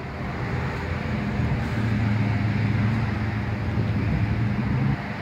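A motor vehicle's engine running with a steady low hum, starting about a second in and stopping near the end, over background traffic noise.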